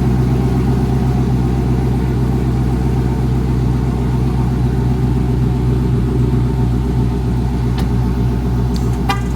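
Dodge HEMI V8 engine idling steadily while warming up from a cold start. A brief click sounds near the end.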